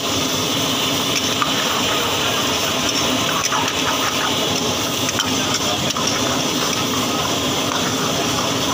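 Prawns and tomatoes frying steadily in a karahi over a gas burner, stirred with a steel ladle, with a few light clinks and scrapes of the ladle on the pan.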